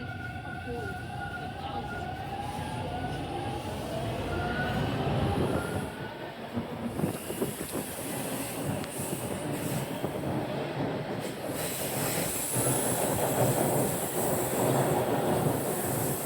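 TTC train running on its rails, with a high wavering wheel squeal over the rolling rumble for the first few seconds. The rumble grows louder, and a strong hiss comes in about two-thirds of the way through.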